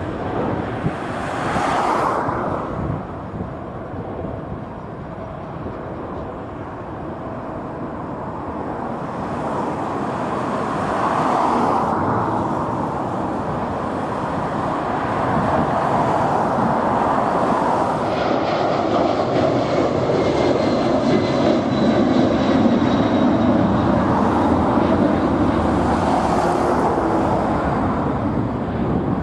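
Jet airliner taking off, its engine noise building to a loud, steady rush in the second half, with a faint high whine from a little past the middle. Gusts of wind buffet the microphone now and then.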